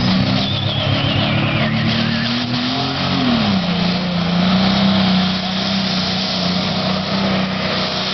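Pro stock pulling tractor's turbocharged diesel engine running hard. Its pitch climbs, drops sharply about three seconds in, then holds steady. A high whine falls in pitch over the first two seconds.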